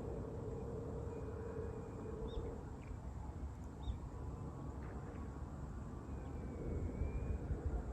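Outdoor nature ambience: a low wind rumble on the microphone with a few short, scattered bird chirps. A faint steady hum stops about two and a half seconds in.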